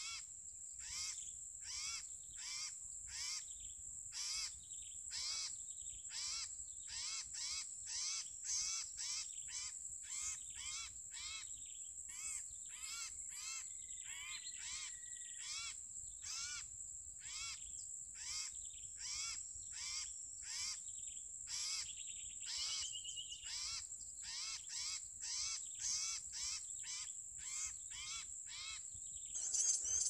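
Common iora (sirtu/cipoh) calling: short sweeping chirps repeated about twice a second in long runs with brief pauses. This is the call used to lure the bird for trapping. A steady high-pitched whine runs underneath.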